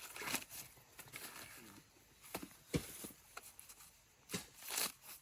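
Irregular rustling swishes with several sharp snaps and cracks scattered through, the loudest a few seconds in, like dry corn leaves and husks being handled and broken.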